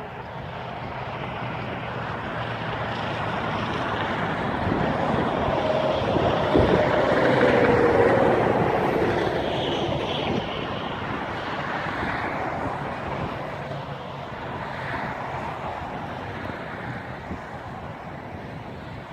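Combine harvester running and passing by, its noise swelling to a peak about seven to eight seconds in and then fading away.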